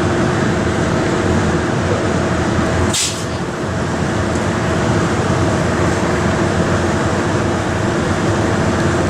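MARC commuter train running steadily with a constant droning hum, with a short hiss about three seconds in.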